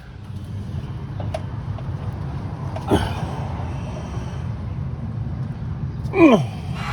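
A man grunting twice with effort while getting under a car, the second a louder groan falling in pitch, over a steady low rumble.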